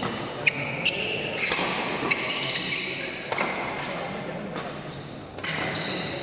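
Badminton doubles rally: several sharp racket hits on the shuttlecock at uneven intervals, with short high shoe squeaks on the court floor, over crowd voices in an echoing hall.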